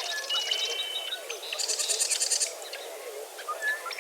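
Dawn chorus of several birds calling and singing over one another, with many lower wavering calls underneath. A fast, buzzy high trill sounds at the start and again about one and a half seconds in, between short clear whistles.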